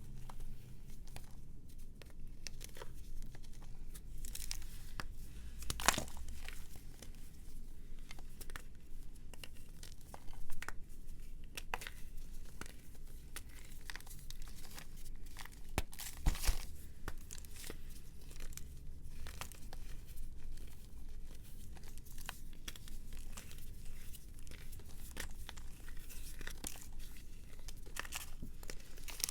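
Brittle material being crushed and crumbled by hand close to the microphone: a continuous run of small crackles, with a few louder cracks.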